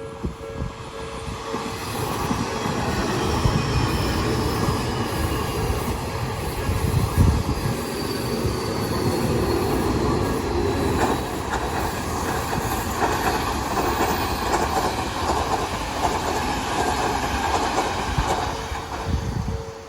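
Odakyu Line electric train running past, with a steady rumble of wheels on the rails and a faint high wheel squeal that slowly falls in pitch. The sound swells over the first two seconds and fades just before the end.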